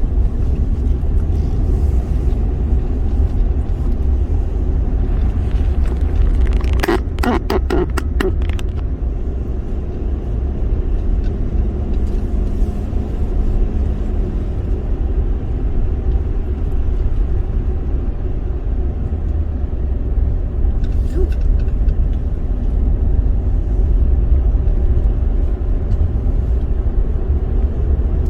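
Steady low rumble of a car driving on the road: tyre and engine noise heard from inside the cabin. A quick run of sharp clicks or rattles comes about a quarter of the way in.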